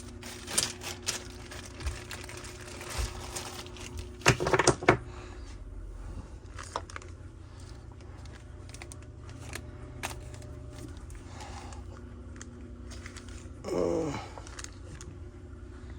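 Small metal tools and parts clicking and clattering on a workbench, with a quick run of sharp knocks about four seconds in.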